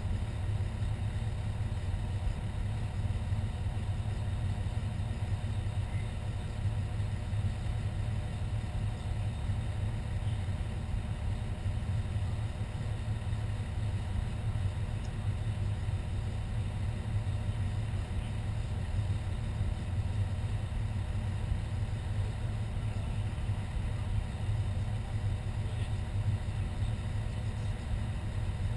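Fire engine's engine idling with a steady low rumble.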